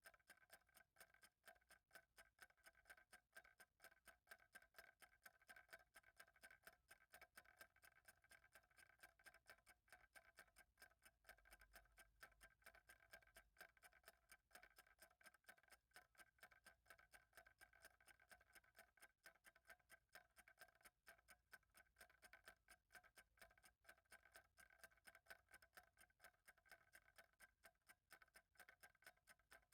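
Faint, steady ticking of a clock, an unbroken run of even, regular ticks.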